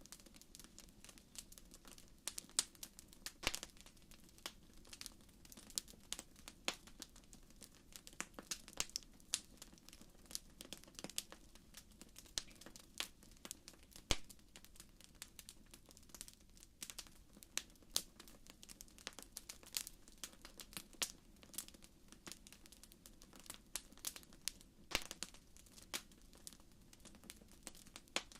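Fire crackling in a fireplace: irregular sharp pops and snaps, several a second, over a steady low background of the burning.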